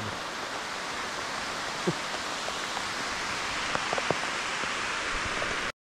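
Hard rain falling on the trees, a steady hiss with a few sharp taps of drops landing close by. It cuts off suddenly near the end.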